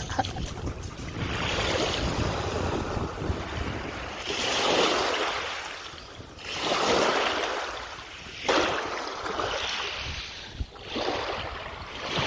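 Sea waves washing onto a beach, swelling and falling back about every two to three seconds, with wind buffeting the microphone.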